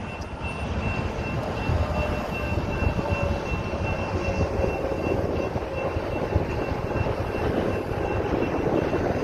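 Low rumble of an approaching train, building slowly, with a level-crossing warning bell ringing at a high pitch that fades out near the end.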